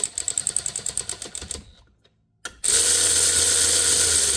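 Ratchet driving the spring compressor's bolts down snug. A run of rapid clicks slows and dies away over the first second and a half. After a short pause comes a steady, continuous whir for the last couple of seconds.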